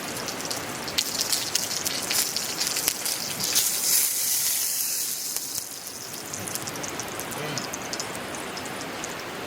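Food sizzling and spitting in hot oil in a pan over a campfire, with many sharp crackling pops. The sizzle swells louder for a couple of seconds around the middle, then settles.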